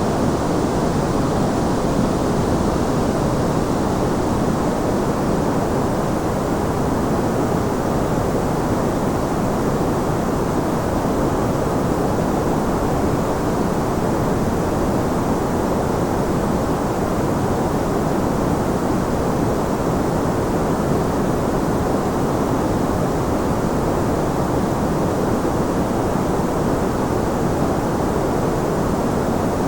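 Continuous white noise for sleep: a steady, even rushing hiss that is deep-toned, with its weight in the lows and mids and little treble, and no changes or breaks.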